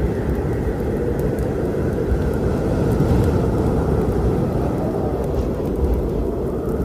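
Steady low storm rumble, with faint scattered crackles and pops from a wood fire.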